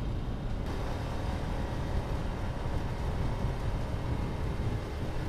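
Yamaha LC135 motorcycle's single-cylinder four-stroke engine running at a steady speed while riding, under heavy wind rumble on the microphone. The wind hiss grows louder about a second in.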